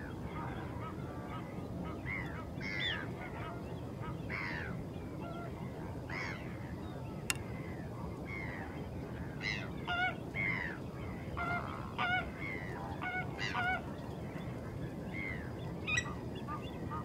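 Several waterbirds give short arched calls, repeated about every two seconds at first and coming thicker and faster from about ten seconds in. The calls sit over a steady low background hiss, with a single sharp click about seven seconds in.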